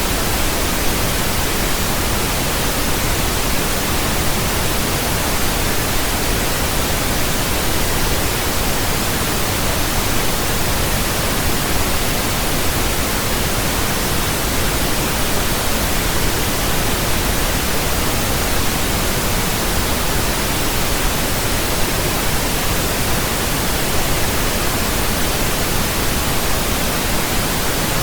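Steady pink noise: an even, featureless hiss spread across all pitches, with more weight in the low end than white noise.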